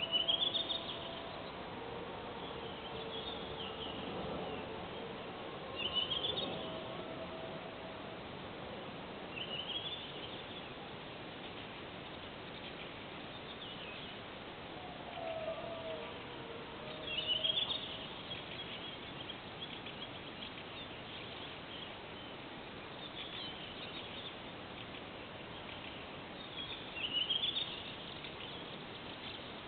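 A songbird repeating a short, quick rising song phrase about five times, a few seconds apart, over a steady hiss of background noise. Faint, drawn-out lower tones sound in between during the first half.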